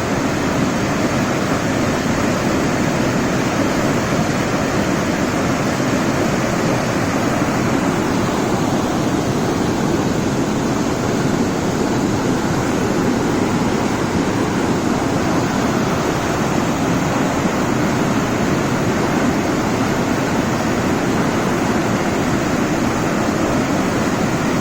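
Waterfall on a storm-swollen river, water rushing steadily without a break.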